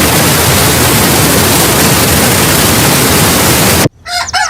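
Heavy rain falling as a loud, steady hiss that cuts off suddenly near the end.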